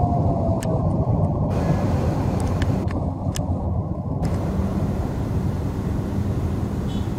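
Bangladesh Railway passenger coaches rolling along the track, a steady low rumble with a few faint clicks. A faint falling whine fades out in the first second.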